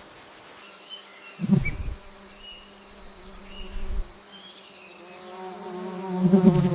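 A flying insect buzzing, with short buzzes about a second and a half in and again near four seconds, then a steady buzz that grows louder toward the end. Faint short bird chirps sound in the background.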